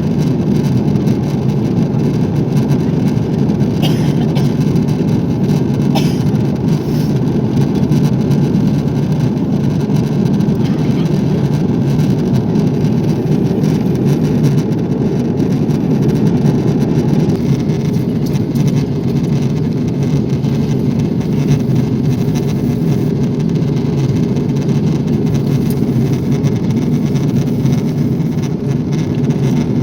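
Steady cabin noise of an Airbus A340 airliner in flight: an even, low rush of engine and airflow noise. Two faint clicks come about four and six seconds in.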